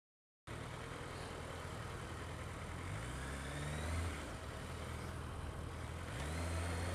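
Kawasaki ER-6f parallel-twin motorcycle engine pulling away. Its pitch rises twice, about three seconds in and again near the end, under steady wind noise on the helmet microphone. The sound begins after a brief dropout at the start.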